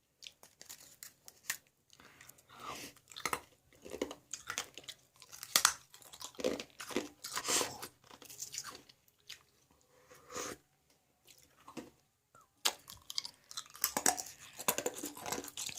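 Ice being crunched and chewed between the teeth close to the microphone, in irregular bursts of sharp cracks with a short pause near the middle.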